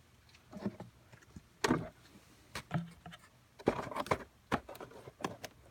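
Handling clatter of a new engine air filter being set into its plastic airbox: a series of short plastic clicks and knocks with light rustling.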